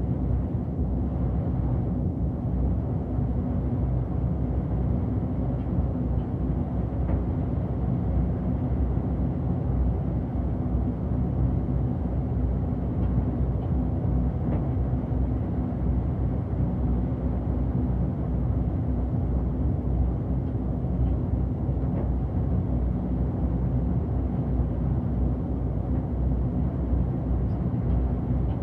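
City bus running along the road, heard from inside the cabin: a steady engine drone over low road rumble.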